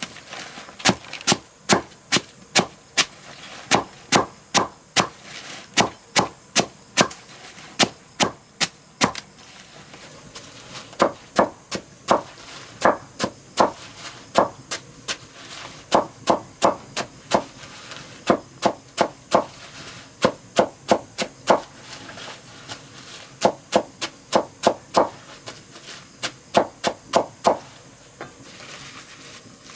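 A hand tool striking something solid over and over, about two sharp blows a second, in runs broken by short pauses.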